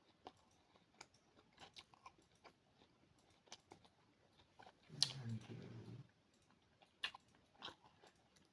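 A person chewing and eating a sweet malta orange, with soft, scattered, wet mouth clicks. About five seconds in there is a louder click and a brief low mumble.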